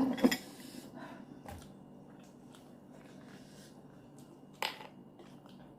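Bowl and cutlery being handled on a table: a burst of clatter at the start, a few light clicks, and one sharp clink a little after four and a half seconds in.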